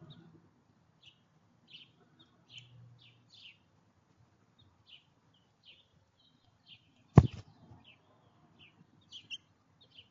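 Small songbirds giving short, high chirps again and again, with one sharp thump about seven seconds in.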